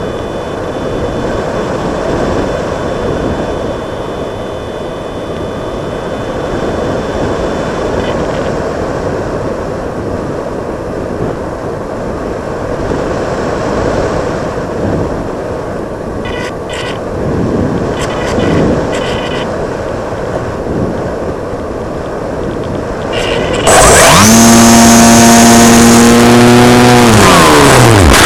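Steady rushing airflow over an EasyGlider Pro model glider's onboard camera in flight, with a few light clicks past the middle. About 24 seconds in, a sudden, very loud droning buzz with a stack of overtones takes over; it falls in pitch and cuts off near the end, around the moment of the crash.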